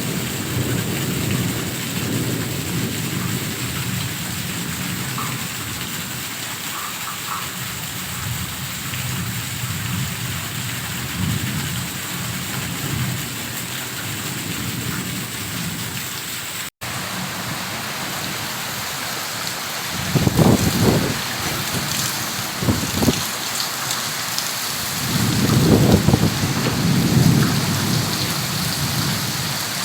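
Heavy rain pouring steadily, with deep rumbles lasting a second or a few seconds about twenty seconds in and again near the end. The sound drops out for a split second about seventeen seconds in.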